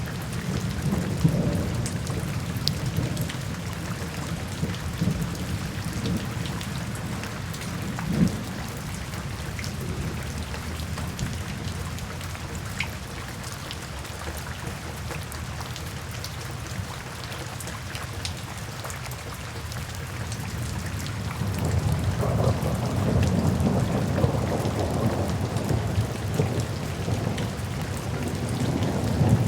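Steady rain falling in a forest, with scattered sharp drips, under low rolling thunder that fades away through the middle and swells up again about two-thirds of the way through.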